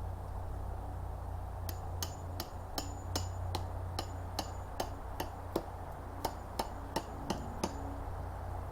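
A series of sharp hammer-like blows, about two or three a second for some six seconds. Several of them carry a brief high metallic ring.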